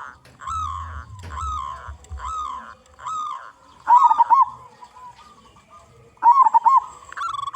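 Local zebra dove (perkutut) cooing: four drawn-out coos about a second apart, then louder runs of quick clipped notes about four seconds in and again near the end.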